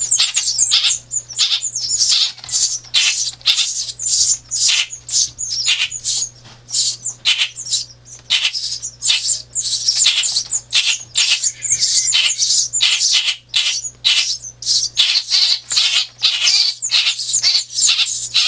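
A brood of nestling songbirds begging for food, with rapid, continuous, high-pitched chirping from several chicks at once.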